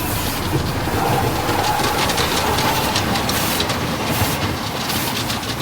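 Automatic car wash running: a loud, steady wash of spray and mechanical rumble and rattling.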